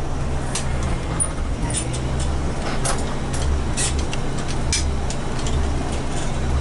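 Ford Bronco's 302 V-8 running at low revs, heard from inside the cab while the truck moves slowly in reverse: a steady low drone with a few scattered sharp clicks.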